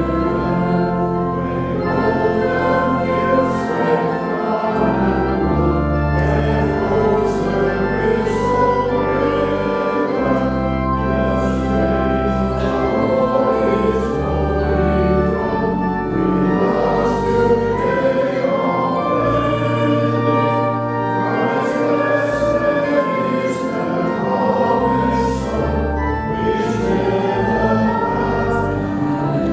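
A congregation singing a hymn in a church with organ accompaniment, the organ holding deep bass notes that change every second or two under the voices.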